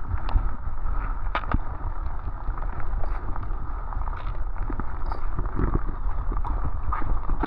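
Wind buffeting the microphone, with scattered short clicks and knocks.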